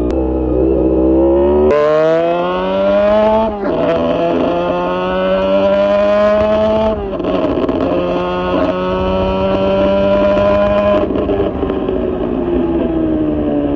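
Honda VFR400 NC30 V4 engine through a GP exhaust, revving up under acceleration with two gear changes, about three and a half and seven seconds in. It then holds a steady note and winds down as the bike slows near the end.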